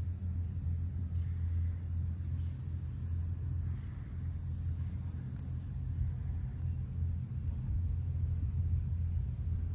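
A steady low rumble that swells and fades a little, with a faint high hiss above it.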